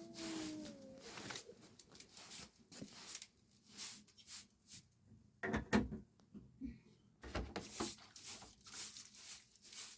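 Irregular clicks and knocks of objects being handled, with a short falling call at the very start.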